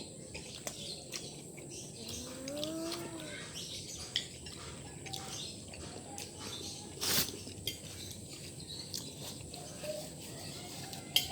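Eating sounds: scattered faint clicks and taps of utensils and chewing, with one sharp click about seven seconds in. A short rising-then-falling hum-like tone sounds once about two seconds in.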